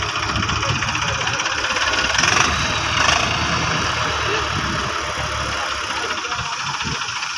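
Tractor diesel engine running with a steady low beat, growing louder for a moment about two to three seconds in.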